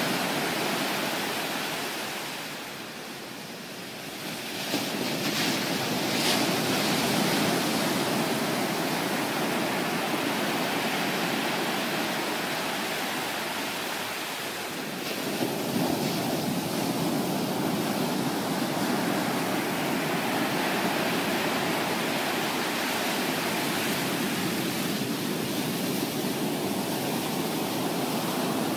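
Ocean surf from a typhoon swell breaking and washing ashore: a continuous rushing noise that eases twice and builds again.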